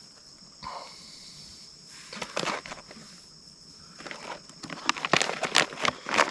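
Rustling and clicking of hands handling gear or food packaging, getting busier and louder near the end, over a steady high insect drone.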